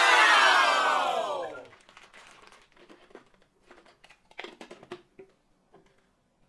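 A loud pitched sound with many overtones slides steadily down in pitch over about two seconds, then gives way to faint crinkling and small clicks as a plastic sauce packet and a jar are handled.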